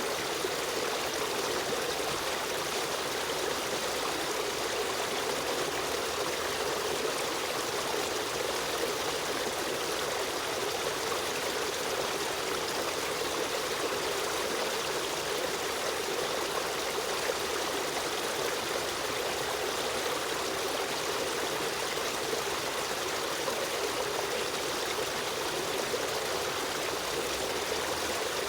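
Running water of a stream flowing steadily, a constant rushing and trickling without breaks.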